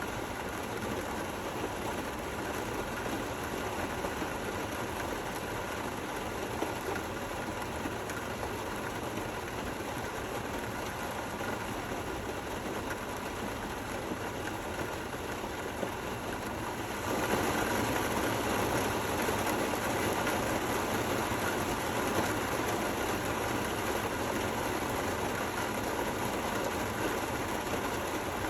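Steady rainfall with no thunder, an even hiss of falling rain, which turns abruptly louder about 17 seconds in.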